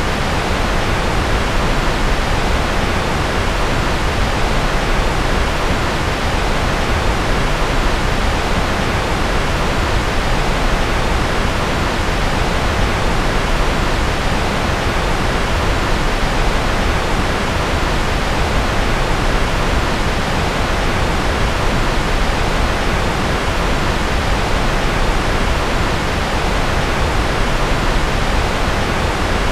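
Steady synthetic white noise: a constant, even hiss that never changes, heavier in the lows than in the highs.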